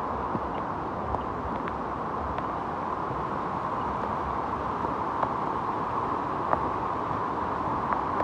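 Steady rush of water from a mountain stream swollen by heavy rain, with a few scattered sharp taps.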